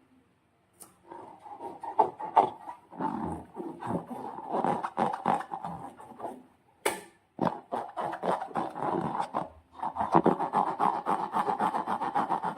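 Slime and rubber balloons squeezed and rubbed by hand, making dense crackly squelching in irregular bursts, with one sharp snap about seven seconds in.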